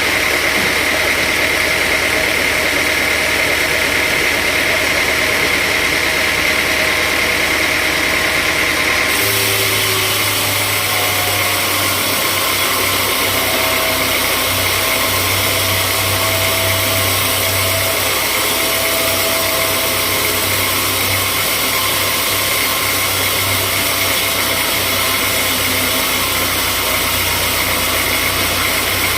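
Sawmill machinery running steadily with a constant engine-like drone. The sound changes abruptly about nine seconds in, then carries on steadily.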